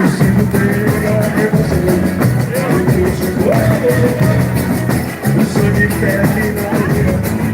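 Live boi-bumbá toada music with fast, steady drumming and a pitched melody line over it.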